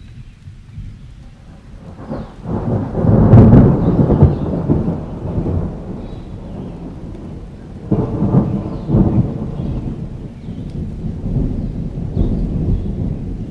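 Thunderstorm: steady rain with rolling thunder. One rumble swells about two seconds in and peaks a second later, and a second rumble breaks suddenly near the middle. Faint birds chirp over the rain.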